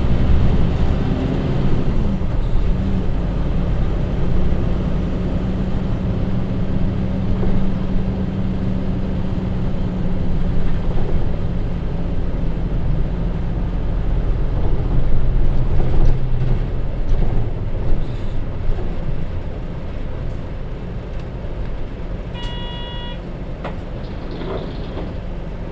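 Hino Rainbow HR bus's J07E diesel engine, heard from inside the cabin, running steadily under load. It eases off a little over halfway through and the running goes quieter as the bus slows. Near the end a short electronic chime sounds once.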